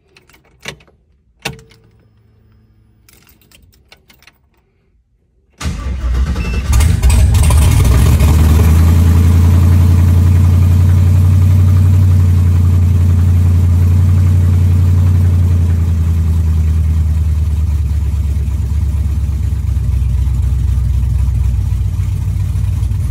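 A couple of clicks, then about five and a half seconds in a car engine starts abruptly and runs on at a loud, steady idle with a deep low note, easing off slightly later on.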